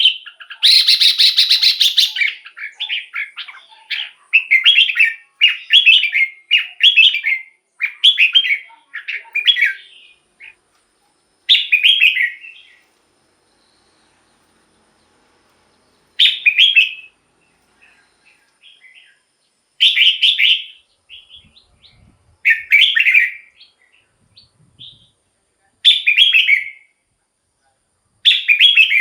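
Red-whiskered bulbul singing loud, bubbly phrases. A quick run of phrases fills the first ten seconds, then single phrases come every few seconds with short pauses between.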